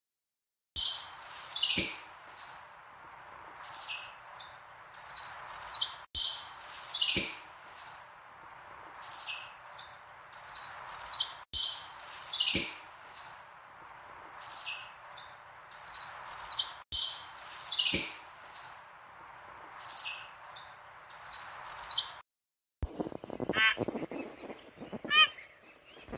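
High-pitched chirping calls in quick bursts over a steady hiss, the same few-second recording repeated four times with abrupt cuts. Near the end it switches to a run of honking fowl calls.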